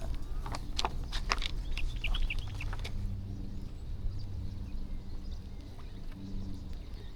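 Birds feeding: a quick run of sharp taps in the first second and a half, then a few short high chirps, over a steady low hum.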